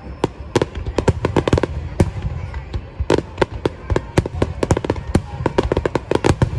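Fireworks bursting in a rapid barrage of sharp bangs and cracks, several a second, with no let-up.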